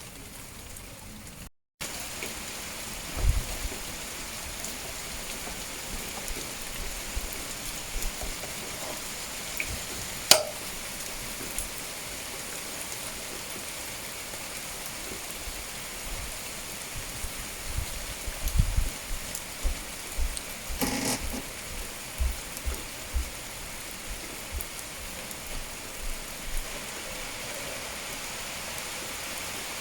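Steady rain falling, an even hiss of drops, with scattered low thumps and a single sharp click about ten seconds in. The sound cuts out for a moment near the start.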